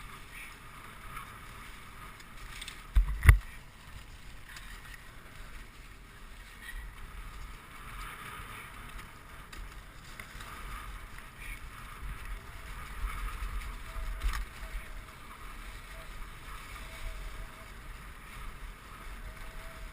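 Dog sled gliding over a snow trail: a steady hiss and scrape of the runners, with wind on the microphone. One sharp knock about three seconds in.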